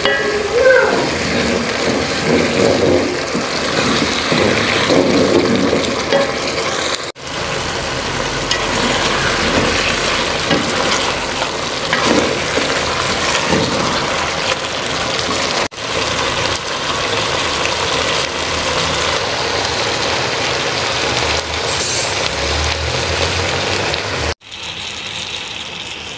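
Tomato sauce and chicken pieces sizzling in a frying pan as they are stirred. The sound breaks off abruptly three times.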